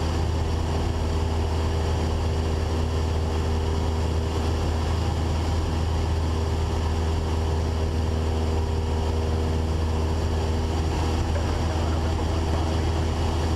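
Cessna 172's four-cylinder piston engine and propeller droning steadily in flight, a constant low hum with steady tones above it, heard from inside the cabin.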